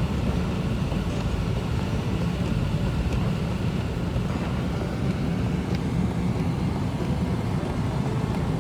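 Steady rumble of road and wind noise from an electric car driving at highway speed in strong wind.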